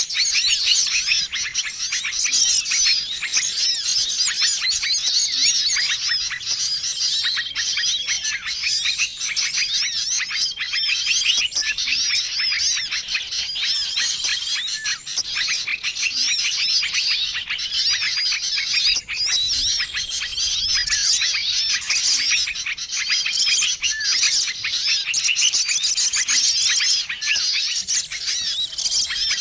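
Many small songbirds chirping and trilling at once in a busy, unbroken chorus of high, overlapping calls. This is a mixed bird-lure recording meant to draw small wild birds in.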